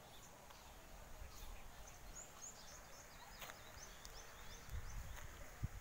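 Quiet outdoor ambience with faint, quick high bird chirps through the middle, then a low rumble and a brief thump near the end.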